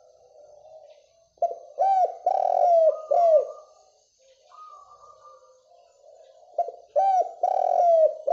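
Spotted dove (derkuku) cooing: two loud phrases of several low, hooked coos, starting about a second and a half in and again near the end, with softer cooing between them.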